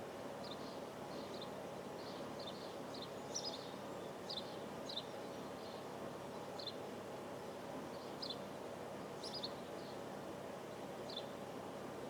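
Birds chirping in short, scattered high notes, about a dozen over the stretch, over a steady low hum of background noise.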